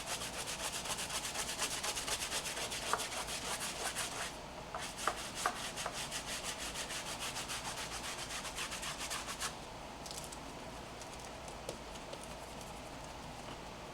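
Quick, even rubbing strokes of hand scrubbing on a car's surface during a hand wash, pausing briefly about four seconds in and stopping about nine and a half seconds in.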